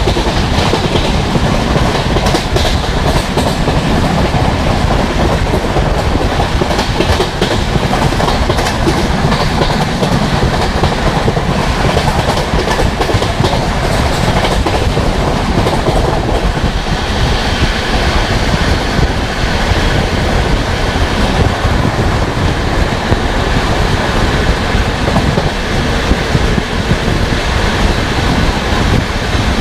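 Indian Railways Poorva Express passenger train running at about 130 km/h. Its wheels make a steady loud rumble on the rails, with a quick clickety-clack of wheels over rail joints.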